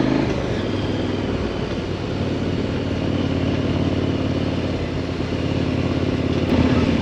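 2018 KTM 1090 Adventure R's 1,050 cc LC8 V-twin engine running steadily while riding, picking up a little near the end.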